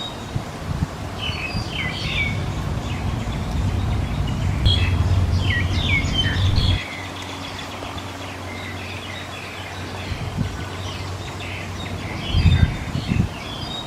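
Small birds chirping in short, scattered high-pitched clusters. A low rumble runs beneath them and cuts off suddenly about halfway through, and a few low thumps come near the end.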